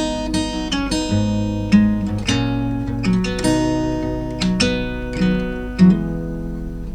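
Acoustic guitar played fingerstyle: single plucked notes and picked chords in a flowing melodic fill.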